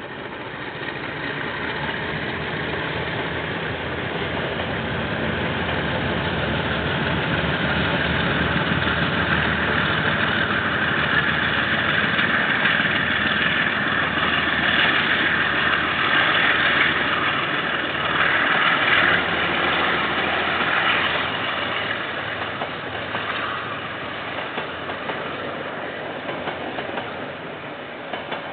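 KiwiRail train passing, its diesel locomotive engine running, growing louder over the first few seconds and easing a little near the end, with wheel noise on the rails.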